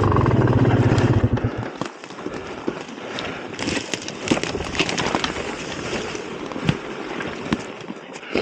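2004 GasGas EC300 two-stroke dirt bike engine running, its note dropping away about a second and a half in, after which only irregular sharp clicks and crackles are heard.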